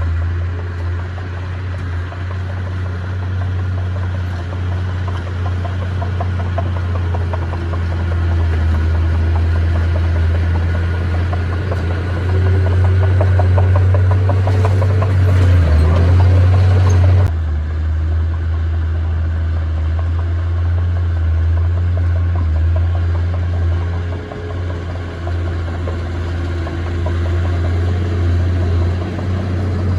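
Bulldozer's diesel engine running steadily with a deep drone, louder for a few seconds past the middle. The sound changes abruptly about seventeen seconds in.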